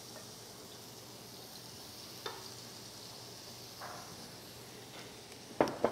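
Marinated chicken pieces sizzling in oil in a grill pan, a faint steady hiss. A few light clicks, and a sharper knock near the end.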